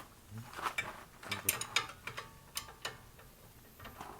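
Hand tools on a disassembled coilover, turning a stubborn nut or ring: a run of irregular metallic clicks and knocks with a brief ringing scrape in the middle.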